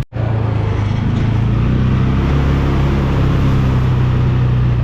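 Vehicle engine running at a steady speed with a low, even hum; the sound starts and stops abruptly.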